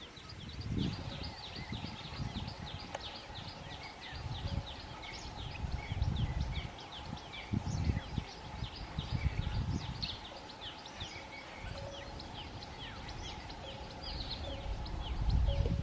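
Many birds calling, short high notes in rapid succession over a faint steady hum. Wind rumbles on the microphone, strongest near the end.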